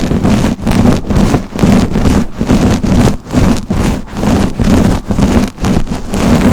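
A brush swept in quick, repeated strokes, about two to three a second, each a scratchy rustle.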